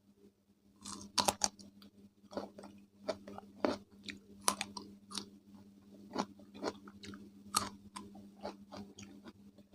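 Close-miked chewing of crunchy raw cucumber: irregular crisp crunches and bites, starting about a second in.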